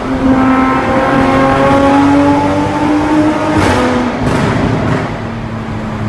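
2020 Toyota Supra with a straight-piped exhaust, revving hard with a slowly rising pitch, echoing in a tunnel. About three and a half seconds in the driver lifts off and the exhaust cracks three times in a second and a half, then settles to a lower drone.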